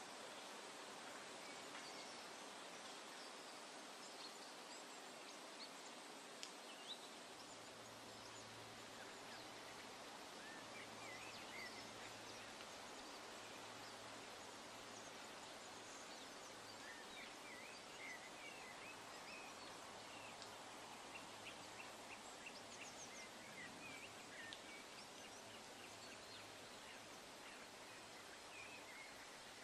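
Faint outdoor ambience: a steady hiss with scattered short, high bird chirps, and a faint low hum that starts about seven seconds in.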